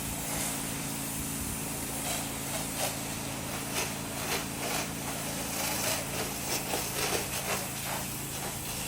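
Pressure washer running: a steady engine hum under the hiss of the water jet, with uneven spattering as the spray hits the house and window sills.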